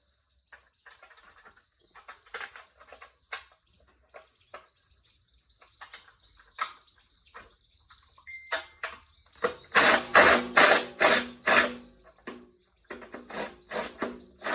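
Hand tools working on metal: scattered clinks and knocks of a wrench on bolts and the engine mount, with a run of rapid, louder metallic clicking about ten seconds in.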